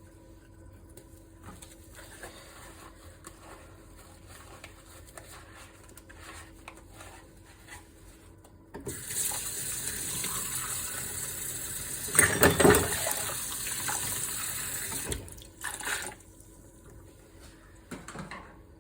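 Kitchen sink tap turned on and running for about six seconds while dishes are washed, the water splashing louder about halfway through, with light clinks of dishes before and after.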